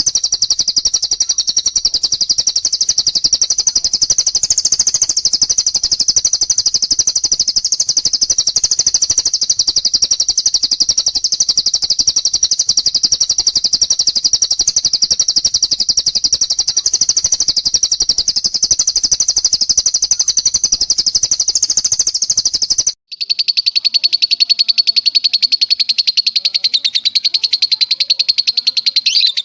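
Recorded songs of cililin and lovebird played for bird training: unbroken runs of very fast, high, chattering trills. After a brief gap about 23 seconds in, it changes to a lower, steadier rapid trill.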